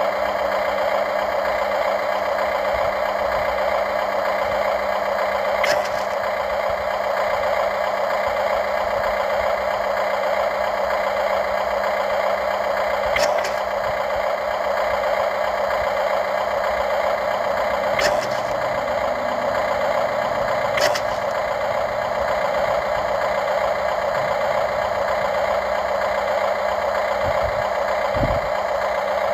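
Radio-controlled model excavator running with a steady mechanical whine, broken by four sharp clicks and a low thump near the end.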